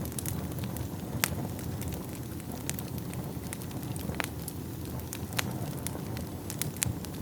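Wood fire burning in a fireplace: a steady low rumble of flames with irregular sharp crackles and pops, the loudest pop about a second in.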